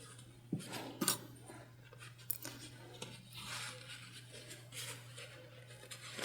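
Faint handling of fabric and bias binding as it is folded over a seam edge: soft rustles and a few small clicks, over a steady low hum.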